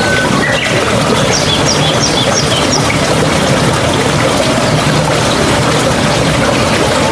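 A mountain stream running and gurgling steadily. About a second in, a bird gives a quick run of five or six high chirps.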